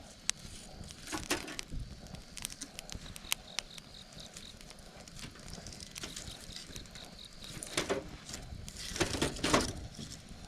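Campfire crackling, with sharp pops scattered through and two louder flaring, rustling swells, one about a second in and a bigger one near the end. An insect chirps in quick, even pulses in the background.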